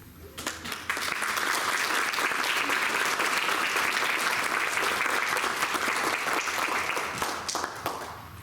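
Audience in a council chamber applauding, building up about a second in and dying away near the end.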